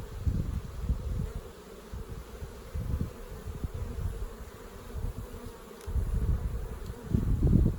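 Honeybees buzzing around an open hive, a steady hum, with irregular low rumbles and bumps that grow loudest near the end.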